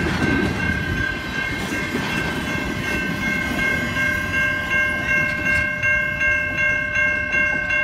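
Empty intermodal well cars rolling past with a rumble and wheel clatter, over the steady ringing of a grade-crossing bell. As the last cars pull away, the bell's strokes stand out plainly at about three a second.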